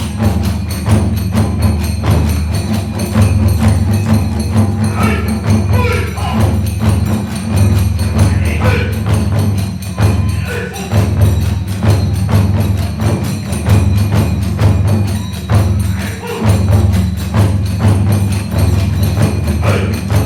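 Kagura hayashi ensemble playing: large and small taiko drums beating a rapid, driving rhythm with clashing tebyōshi hand cymbals, and a bamboo flute heard in places.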